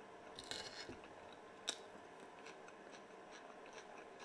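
A person chewing a mouthful of salted herring and boiled potato: quiet, wet mouth sounds with small scattered clicks, a short crackly patch about half a second in and one sharper click a little under two seconds in.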